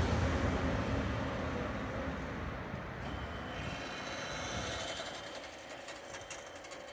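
Deutsche Bahn ICE train's rolling noise fading steadily as it moves away. From about halfway in, a faint steady whine and light ticking come from the level-crossing barrier drive as the booms lift.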